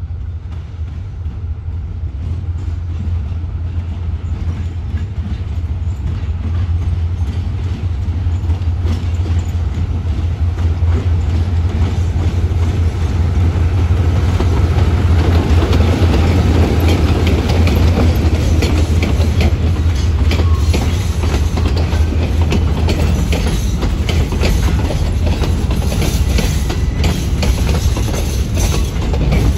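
Diesel-electric freight locomotive approaching and passing with a steady low engine drone that grows louder until about halfway through, then a long train of container flatcars rolling by, wheels clicking over rail joints and points.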